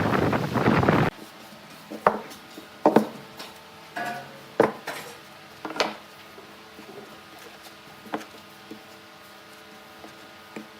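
Wood lathe cutting noise that stops abruptly about a second in, followed by a handful of separate knocks and clinks of metal tools and wood pieces being picked up and set down, some ringing briefly.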